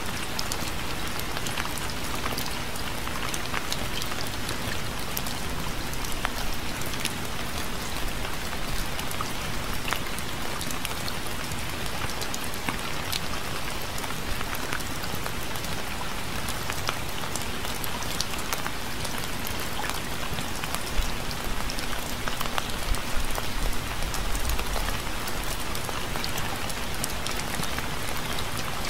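Steady rain falling, an even hiss dotted with many sharp ticks of individual drops striking a surface, a few louder bursts of drops a little after two-thirds of the way through.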